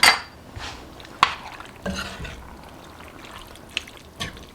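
Crushed tomatoes going into a pot of chili and being stirred: a soft wet, sloppy sound with a few sharp clinks of a metal spoon or the can against the pot.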